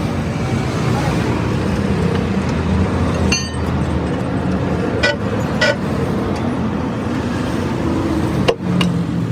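Busy road traffic with vehicle engines running steadily, broken by a few short sharp clicks or knocks.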